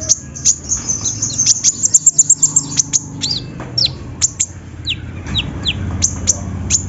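Kolibri ninja, a small sunbird, calling in a rapid series of sharp, high chips, each sweeping down in pitch, with a fast run of chips about two seconds in.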